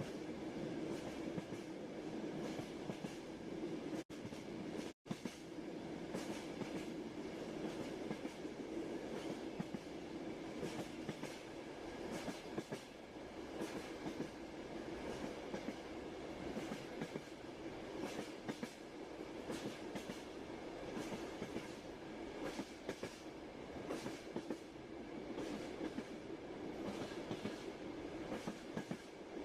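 Train running on rails: a steady rumble with irregular clicking of the wheels over rail joints. The sound drops out briefly twice, about four and five seconds in.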